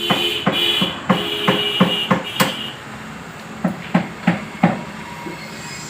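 Hammer striking metal, a quick run of about seven ringing blows, then a pause and four more blows.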